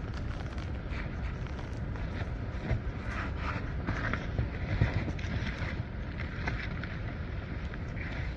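Snowstorm wind buffeting the microphone: a steady low rumble with brighter rushes of wind noise coming and going.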